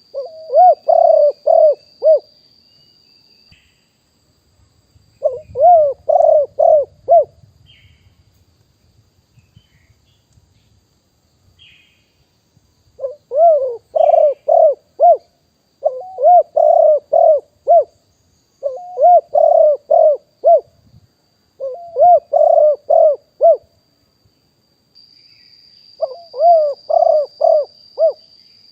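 A male spotted dove singing its cooing song: seven phrases of four to six rhythmic coos, each phrase about two seconds long, with pauses of one to four seconds between them. A faint, steady, high-pitched whine runs underneath.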